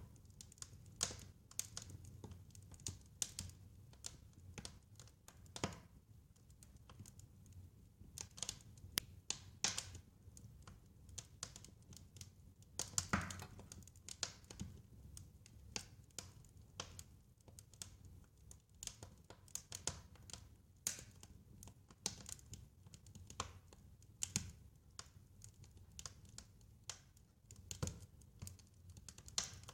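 Wood fire crackling: irregular sharp pops and snaps over a soft low rumble of the burning fire, with one louder pop about halfway through.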